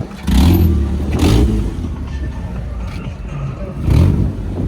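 A performance car's engine and exhaust revving hard twice: a longer rev starting just after the start and a shorter one near the end.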